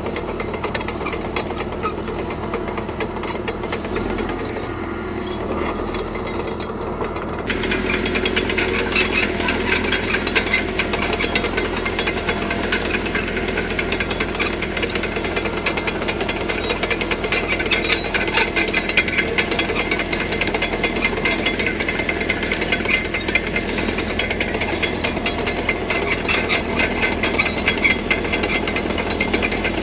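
CAT D3K crawler bulldozer running, its diesel engine mixed with a dense, rapid clatter of steel tracks. About seven seconds in, the engine and rattle grow louder.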